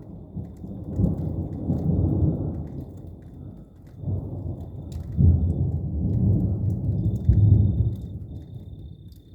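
Thunder rumbling in two long rolls, the second longer and louder, dying away near the end.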